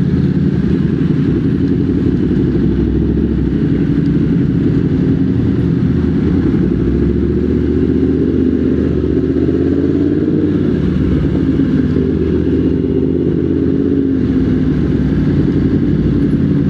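Motorcycle engine running steadily at low revs, with a slight rise and wavering in pitch about eight to ten seconds in.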